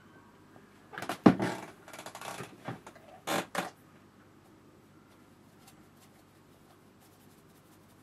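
Handling noises: a sharp knock about a second in, followed by a few short clatters and scrapes over the next two and a half seconds, then quiet room tone.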